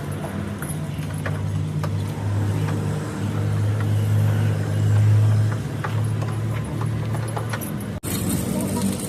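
A steady low hum of a running motor or engine that swells about five seconds in, with scattered light clicks and knocks over it.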